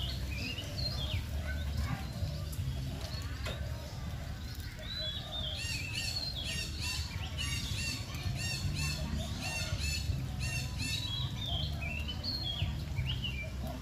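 Birds chirping and twittering: many short, high, gliding notes, thickening into a busy run of quick repeated notes through the middle, over a low steady rumble.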